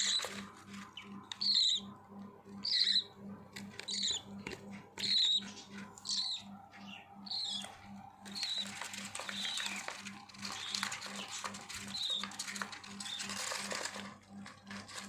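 Budgerigar chicks calling: short, high chirps about once a second. From about eight seconds in these give way to a denser scratchy chatter with a few fainter calls. A steady low pulsing hum runs underneath.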